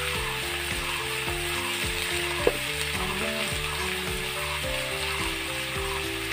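Cut potato and pointed gourd frying in hot oil in a wok, with a steady sizzle.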